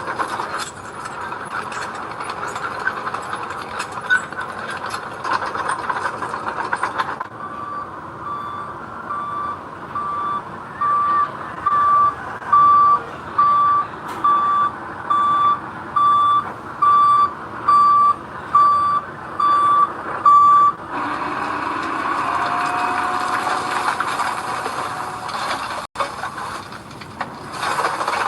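Heavy diesel earthmoving machinery running, with a reversing alarm beeping steadily about once a second for some thirteen seconds in the middle, as a dump truck or bulldozer backs up.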